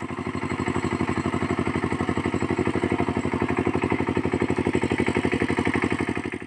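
Power tiller engine running steadily with a rapid, even chug of about ten beats a second.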